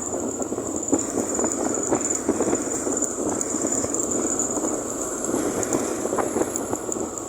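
Riding noise of a motorcycle on the move: a steady rush of wind and road rumble with many small rattles and knocks, and a thin high whine over it.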